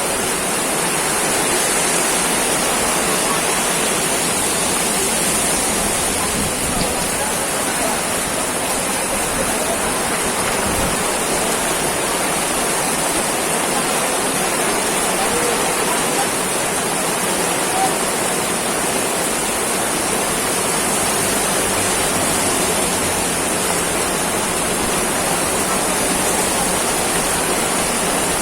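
Heavy tropical downpour: a loud, steady hiss of rain.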